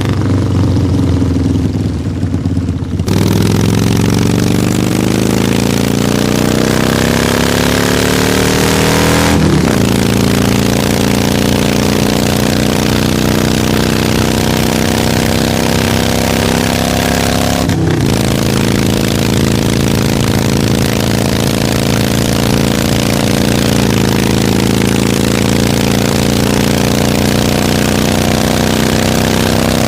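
Harley-Davidson motorcycle's V-twin engine pulling away. It runs low and steady for about three seconds, then rises in pitch as it accelerates. There are gear changes about ten and eighteen seconds in, after which it holds a near-steady cruising speed.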